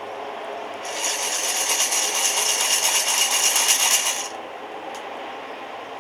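Roasting coffee beans rattling inside a roaster over a wood fire, a dense shaking rattle that starts about a second in and stops abruptly after about three seconds, over a steady rushing background.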